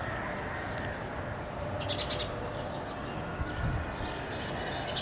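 Sparrow chirping: a quick run of high chirps about two seconds in and another at the very end, over a steady background hiss.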